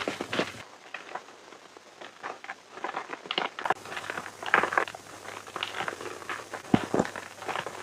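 Gym chalk being crushed and crumbled: irregular crunches and crackles, sparse and soft for the first few seconds, then denser and louder.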